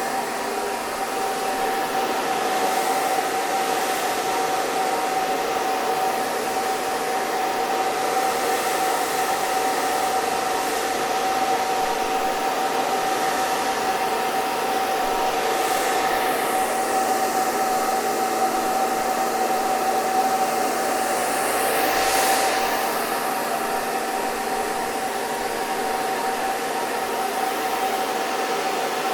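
Hair dryer running steadily: a rushing blow of air over a steady motor whine. The hiss swells and sweeps twice, about halfway through and again about three-quarters of the way through.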